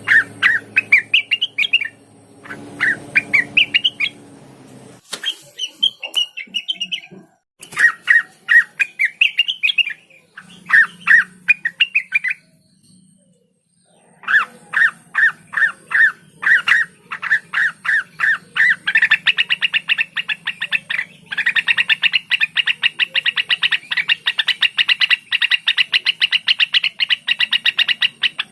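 Cucak wilis, a leafbird, singing: phrases of quick rising chirps and squawks, a short break near the middle, then a long fast rattling series of rapid repeated notes through the last third.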